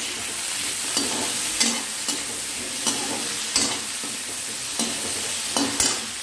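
Onions, tomatoes, garlic and ginger sizzling in hot oil in a metal kadhai while a steel perforated skimmer stirs them, scraping the pan in short strokes about once a second.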